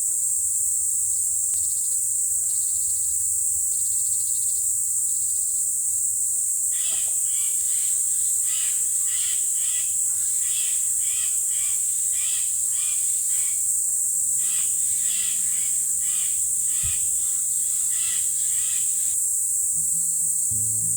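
Crickets and other insects calling in a steady high-pitched chorus. From about 7 s to 19 s, short chirps repeat about twice a second over the chorus.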